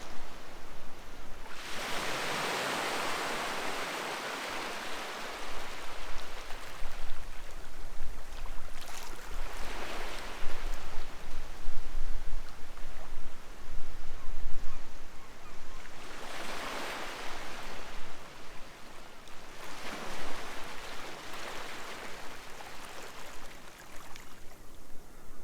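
Sea waves washing onto the beach, the surf swelling and fading in slow surges, the biggest about two seconds in and smaller ones around ten, sixteen and twenty seconds in.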